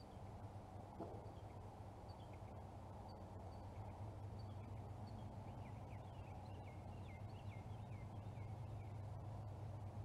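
Faint bird chirps: a string of short, quick gliding notes that come thicker in the second half, over a steady low background noise.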